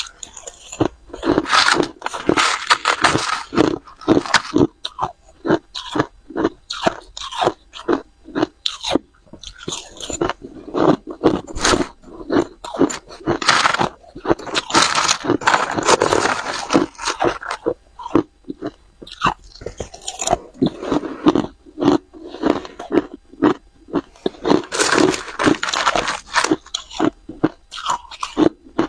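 Ice being bitten and chewed right at the microphone: a steady run of sharp, crisp crunches, several a second, with thicker bouts of grinding crunch now and then.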